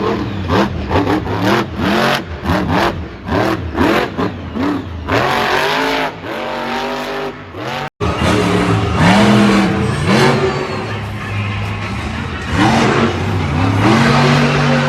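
Monster truck engine being revved hard again and again, its pitch rising and falling in quick jabs. About eight seconds in, the sound cuts off for an instant, then the engine runs on at high revs with slower swells in pitch.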